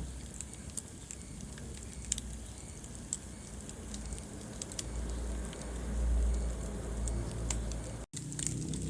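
Wood fire crackling in a fireplace: irregular sharp pops and snaps over the low, steady rumble of the flames. The sound cuts out for a split second about eight seconds in.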